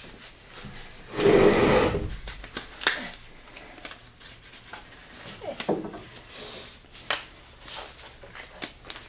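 Disposable gloves being pulled on and handled: a loud rustle about a second in, then scattered light clicks and knocks.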